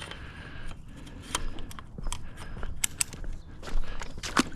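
Scattered sharp clicks and knocks, several sharper ones near the end, from a pool pole and brush being handled.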